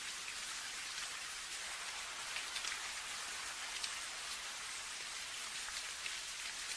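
Steady rain: an even hiss of falling rain with scattered sharper drops ticking on a surface.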